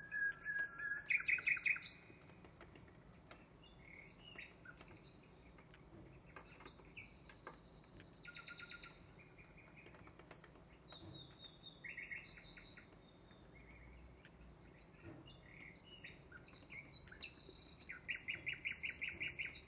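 Recorded nightingale song played through a computer's speakers: phrases of rapid repeated trills and short whistles separated by pauses. The loudest trills come about a second in and again near the end.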